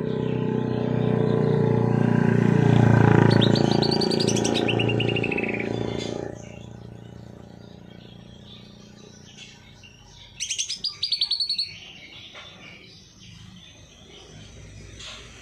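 Songbird giving rapid chattering trills of high notes: one falling run about 3.5 s in and a loud fast burst about 10 s in. Through the first six seconds it sings over background music, which then fades out.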